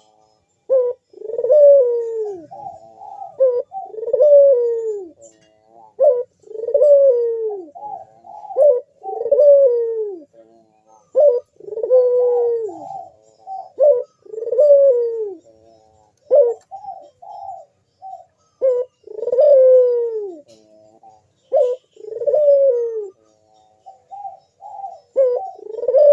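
Ringneck dove (burung puter) cooing over and over, a male in breeding mood: each coo a falling note about a second long, repeated roughly every two seconds with shorter notes between.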